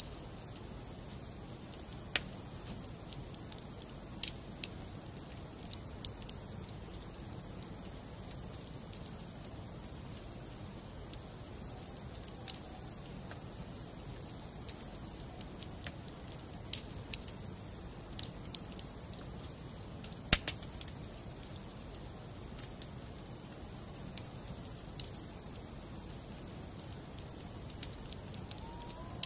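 Wood fire burning in a fireplace: a steady low rush with scattered sharp crackles and pops of burning logs, the loudest pop about twenty seconds in.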